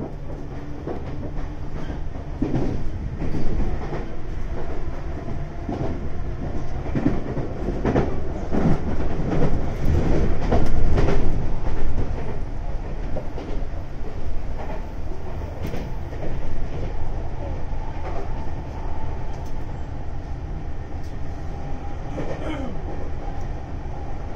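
Sotetsu 9000 series electric train running at speed between stations: a steady rumble of wheels on rail, with clatter over rail joints that is loudest about ten seconds in.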